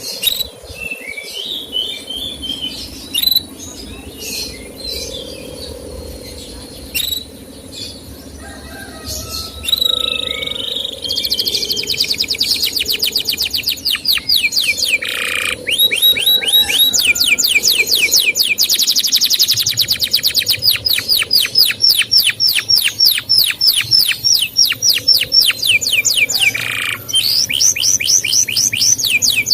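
Male canary singing: scattered short chirps at first, then, about a third of the way in, a long fast trill of evenly repeated chirps, each sweeping down in pitch, with a few short breaks.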